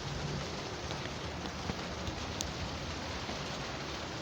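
Heavy rain falling steadily on surfaces in a thunderstorm, with wind noise.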